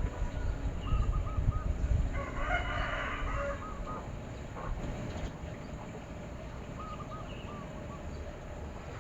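A rooster crows once, starting about two seconds in, with short repeated calls from small birds around it. A low rumble runs under the first couple of seconds and then fades.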